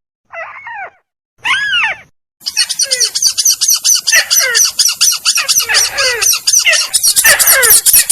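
Crake (burung tikusan) calls on a bird-trapping lure recording: two short rising-and-falling calls, then from about two and a half seconds a dense, fast run of high repeated notes over lower downslurred notes.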